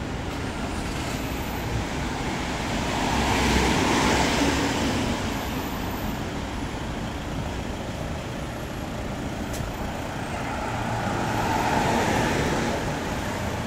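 Street traffic with a steady background hum; vehicles pass close by twice, swelling and fading about four seconds in and again near the end.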